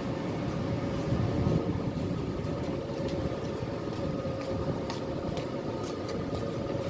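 Steady urban background rumble with a constant mechanical hum and a few faint light clicks.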